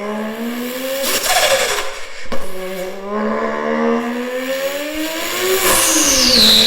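A performance car accelerating hard past: the engine's pitch climbs, drops sharply at two quick gear changes about one and two seconds in, climbs again, then falls as the car goes by. A high steady whine starts near the end.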